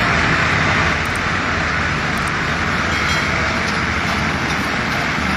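Diesel tractor engine running hard and steady under heavy load, a continuous loud rumble.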